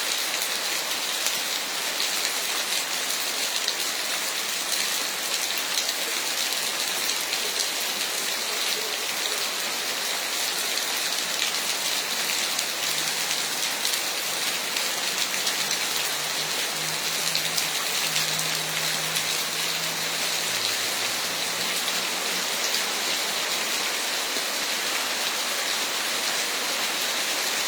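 Heavy rain pouring steadily, a dense hiss of drops hitting the ground. A faint low hum rises under it about halfway through and fades again.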